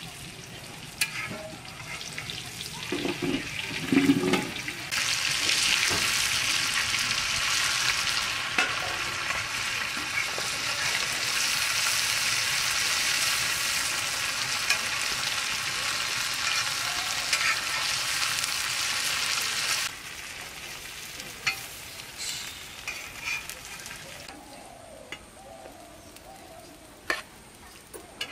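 Pumpkin-flower and egg fritters frying in hot oil in an iron pan, with a steady sizzle and sharp clicks of a metal spatula against the pan. The sizzle is much louder through the middle stretch.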